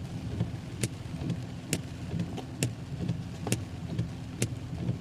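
Car interior while driving in heavy rain: a steady low engine and road rumble, with a sharp click repeating about once a second.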